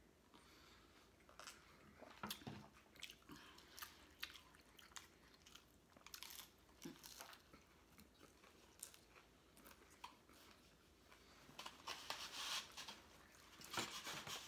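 Faint chewing and crunching of tacos: scattered small bites and mouth sounds, busiest about two seconds in and again near the end.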